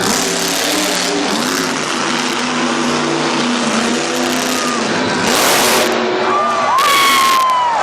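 Monster truck engine running and revving, loud and rising in pitch. It is topped by a high whine that slides downward near the end.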